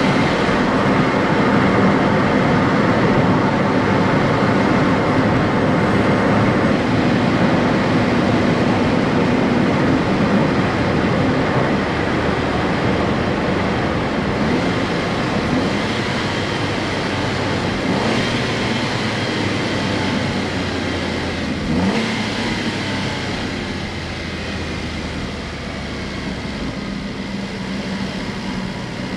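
Honda S660's small turbocharged three-cylinder engine running as the car drives, under steady road noise. The engine note rises several times, and there is a brief sharp knock about 22 seconds in.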